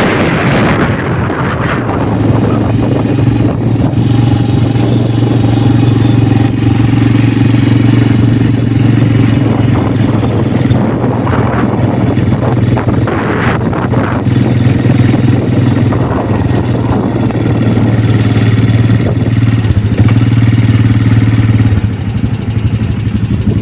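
Quad bike engine running at a steady, unchanging pitch while riding. The engine note drops away near the end.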